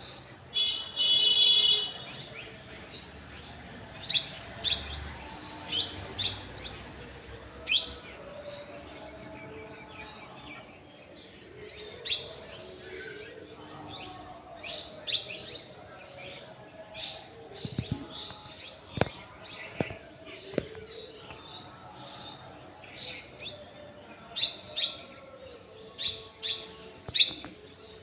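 Birds chirping: many short, high chirps throughout, with a louder drawn-out call about a second in and a quick run of chirps near the end.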